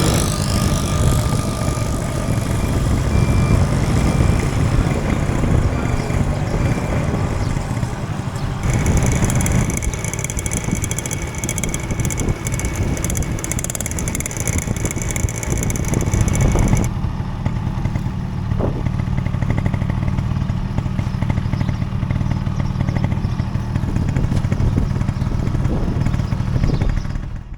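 Motorcycle engine running steadily while riding, with wind rushing over the microphone. A high, steady buzz joins in from about nine seconds in and stops about eight seconds later.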